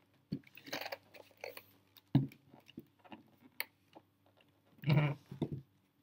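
Scattered clicks and knocks of a laptop and its parts being handled, with a sharp knock about two seconds in and a heavier one about five seconds in, over a faint steady hum.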